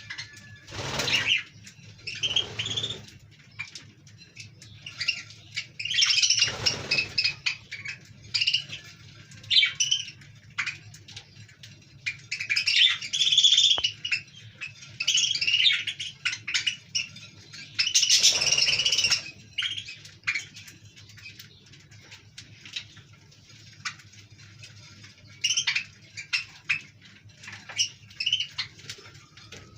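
Budgerigars chirping and chattering in repeated bursts of short, high notes, with a few louder rustling bursts among them and a faint steady low hum underneath.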